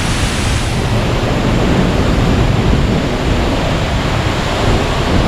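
Large waterfall pouring a heavy flow of water, a loud, steady rushing roar, with rumble on the microphone.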